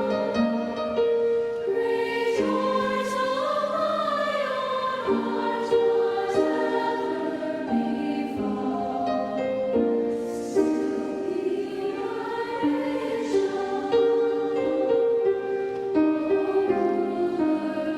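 Youth choir singing a slow hymn arrangement in parts, holding long sustained chords that shift from one to the next.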